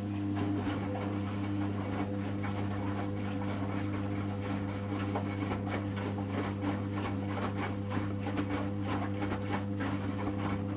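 Servis Automatic M3008B washing machine's drum turning during the heating stage of a 40 °C quick wash. A steady motor hum starts abruptly, with the wet laundry and water sloshing and thudding irregularly in the drum.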